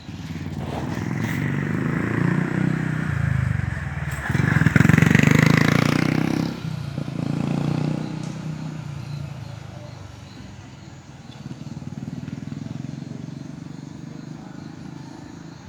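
A motor vehicle engine running, growing louder to a peak about five seconds in, then fading away.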